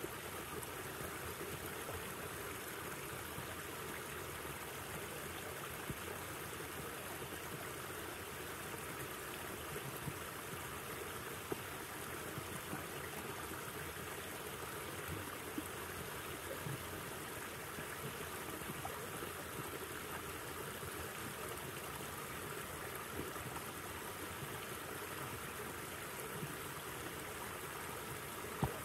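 A river flowing, a steady rush of water, with a few brief faint ticks over it.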